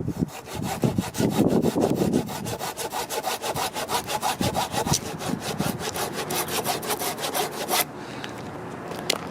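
Hand saw cutting through a wooden log for firewood, in quick, even back-and-forth strokes. The strokes stop abruptly near the end.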